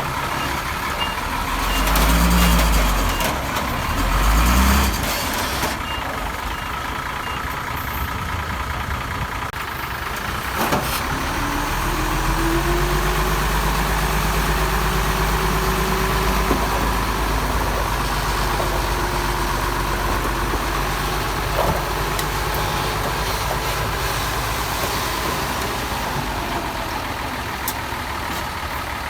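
Heavy diesel machinery with a truck's reversing alarm beeping steadily over it for the first several seconds, and two heavy low thuds a few seconds in. About ten seconds in, a diesel engine revs up and keeps running hard under load.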